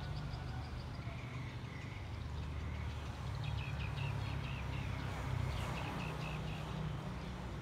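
Small birds chirping in runs of quick, high notes, about three seconds in and again near six seconds, over a steady low rumble.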